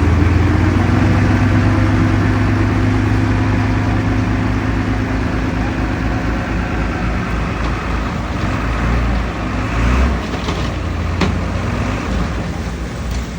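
Heavy diesel engine of earthmoving machinery running hard, its low steady note easing off after about seven seconds, with a few sharp knocks around ten and eleven seconds in.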